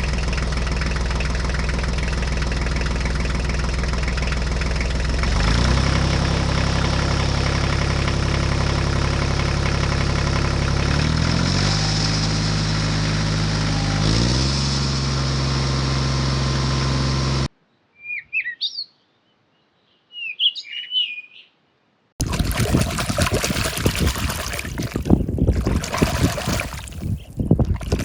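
A motor running steadily, its pitch stepping up and down a few times, cuts off suddenly; in the quiet that follows a bird chirps twice, then a loud rushing, hissing noise begins.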